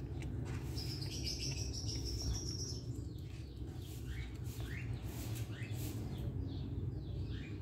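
Small birds chirping: a high, thin trill lasting about two seconds near the start, then a few short rising chirps. Underneath runs a steady low background hum.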